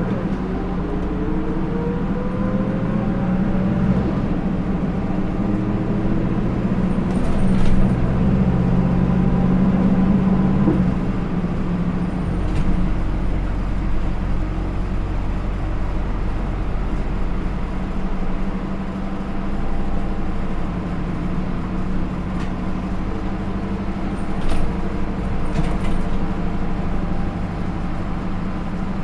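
Hino Rainbow II bus's Isuzu 4HK1-TCH four-cylinder turbo diesel, through an Aisin automatic, heard from inside the bus as it accelerates with rising engine pitch over the first few seconds. It then runs on steadily at cruising speed, with a change in the engine's low tone about eleven seconds in and a few light clicks.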